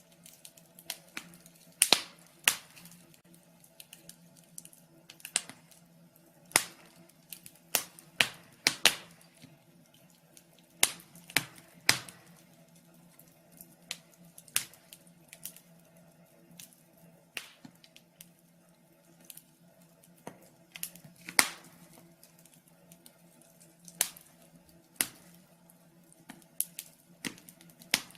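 Wood fire crackling in a fireplace: sharp, irregular pops and snaps at uneven intervals over a faint steady hum.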